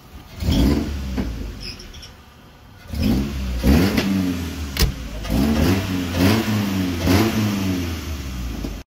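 A car engine idling and being revved in a series of short blips, about five in all, with a lull between the first and the rest. A single sharp click comes about midway.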